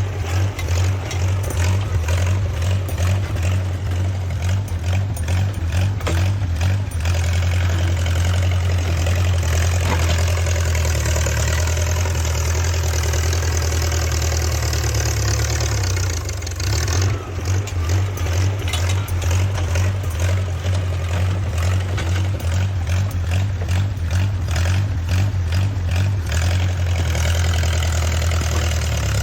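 Small 1950s crawler bulldozer's engine running steadily, with stretches of rapid clattering over it.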